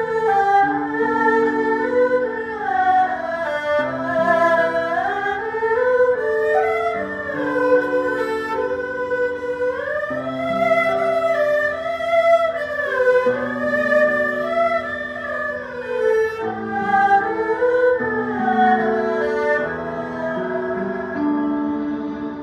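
Erhu and zhonghu ensemble playing a melody that slides smoothly between notes, over held lower notes.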